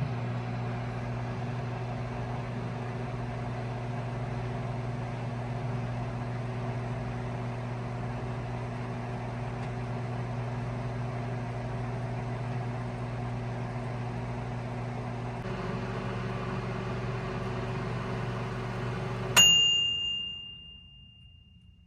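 Analog microwave oven (Micro Fridge MFM-7N) heating, with a steady electrical hum. Near the end it shuts off and its timer bell dings once, ringing on briefly as the cycle ends.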